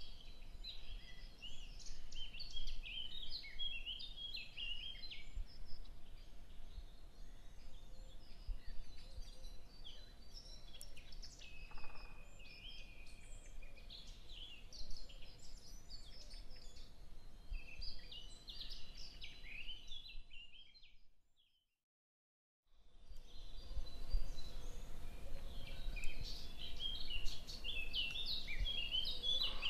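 Small birds chirping and twittering in many short calls over a steady low background hum. The sound drops out completely for about a second and a half a little after two-thirds through, then the chirping resumes.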